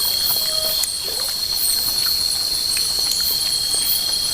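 Night insects, crickets or similar, keep up a steady high-pitched shrill. Higher chirps repeat at an even pace over it.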